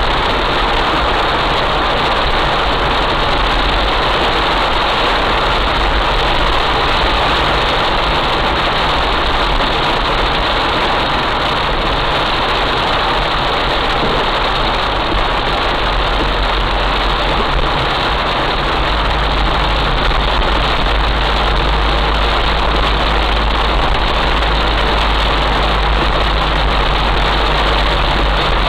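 Heavy rain falling on a car, a dense steady hiss over the low, steady hum of the car's engine running.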